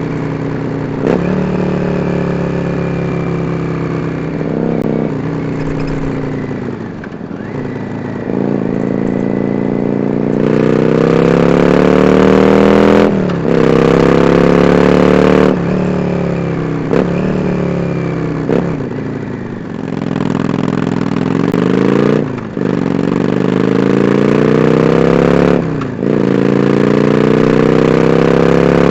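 Yamaha Drag Star 400 Classic V-twin running through twin open-end Supertrap mufflers under way. The engine pitch climbs steadily, drops sharply at each shift or throttle lift, then climbs again, repeating about eight times.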